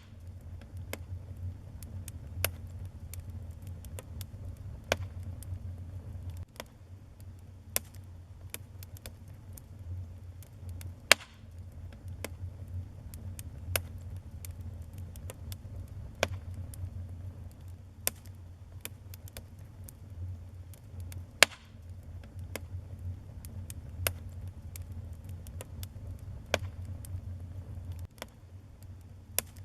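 Wood fire burning in a fireplace: sharp crackles and pops at irregular intervals, a few much louder than the rest, over a low steady rumble of flame.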